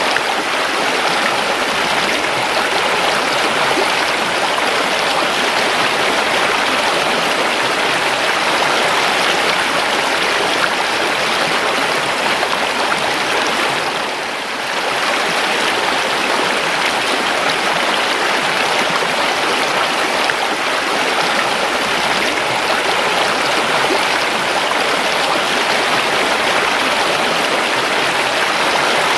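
River water running steadily, a dense, even rush of flowing water that dips briefly in level about halfway through.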